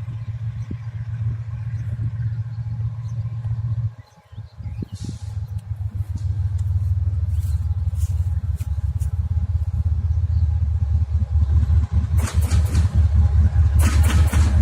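TE33AC diesel locomotive's GEVO12 V12 diesel engine running with a steady low rumble that grows louder as it comes closer, with a rapid clatter of sharp knocks setting in near the end.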